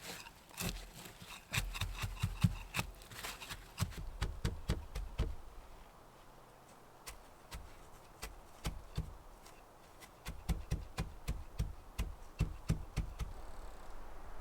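Irregular knocks and taps from hand work, dense at first, sparse and quieter for a few seconds in the middle, then picking up again.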